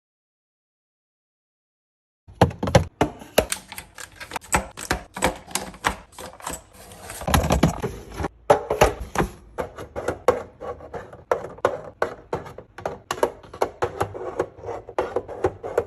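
Food packages, bottles and plastic containers being handled and set into a fridge, making a quick run of clicks, taps and knocks several times a second. It starts after about two seconds of silence.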